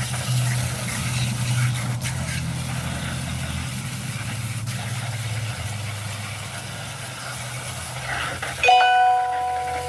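Water spraying from a garden hose, rinsing a box fan, with a steady low hum underneath. Near the end, a sudden ringing tone starts and is the loudest sound, then fades over a second or so.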